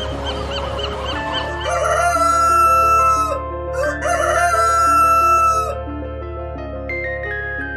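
Rooster crowing twice, two long calls in a row, over background music.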